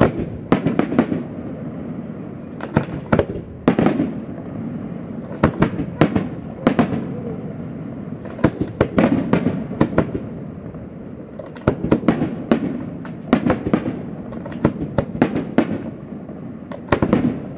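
Aerial firework shells bursting overhead: clusters of sharp bangs every one to two seconds, over a steady background din.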